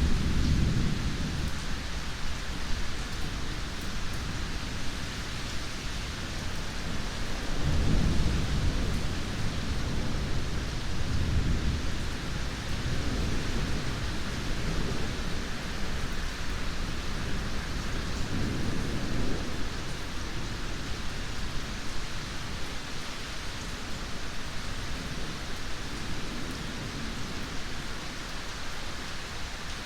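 Steady heavy rain with rolling thunder: a low rumble at the start, a stronger one from about eight seconds in lasting several seconds, another near nineteen seconds, then the rumbling dies down leaving the rain.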